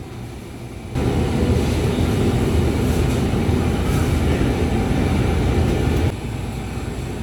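A loud, steady rumbling noise that starts abruptly about a second in and cuts off sharply about six seconds in.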